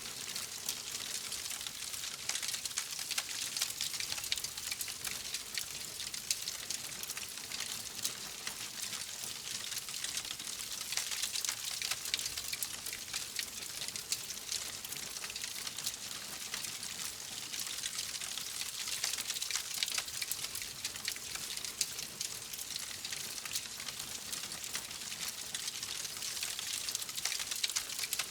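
Wood fire crackling steadily: a dense patter of small pops and snaps over a soft hiss.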